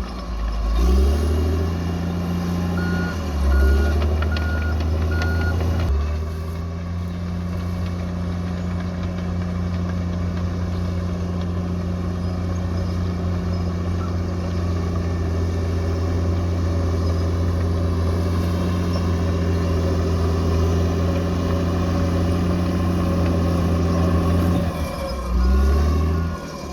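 Diesel engine of a heavy earthmoving machine running under load and changing speed a few times, with a reversing alarm giving four short beeps a few seconds in and more beeps near the end.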